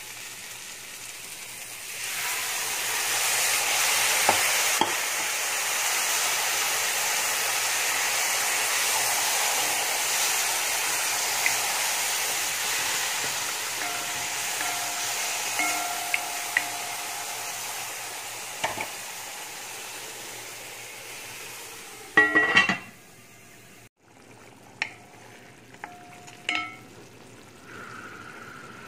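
Frozen grated tomato sizzling in hot oil in a pot of browned chicken and fried onions: a loud frying hiss starts about two seconds in and slowly dies down. Near the end a spatula clanks against the pot a few times, followed by scattered light clicks.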